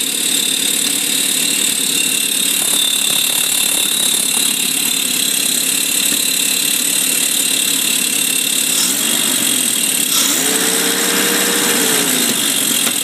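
Freshly rebuilt Toyota 1F 3.9-litre straight-six idling steadily on its first run. A short held tone rises above it about ten seconds in.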